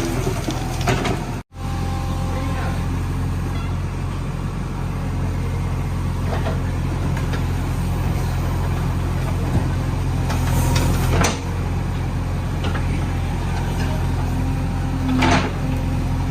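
JCB 3DX backhoe loader's diesel engine running with a steady drone. There is a brief drop-out about a second and a half in, and a few short knocks around ten to eleven seconds and again near the end.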